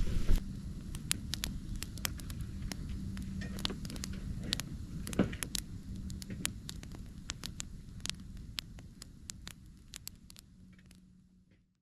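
Wood campfire crackling, with many irregular sharp pops and snaps, the sound fading away to silence near the end.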